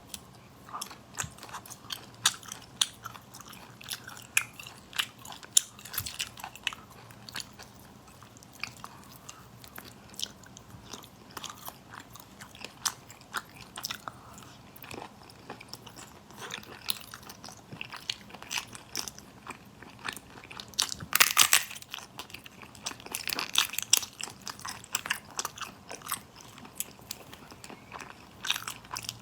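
A person eating close to the microphone: crisp crunching bites and chewing, a quick run of sharp crunches throughout, with the loudest burst of crunching about two-thirds of the way through.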